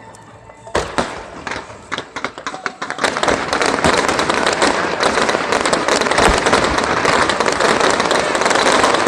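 Aerial fireworks going off: a sharp bang about a second in, a few scattered pops, then from about three seconds on a dense, continuous crackle of many rapid pops.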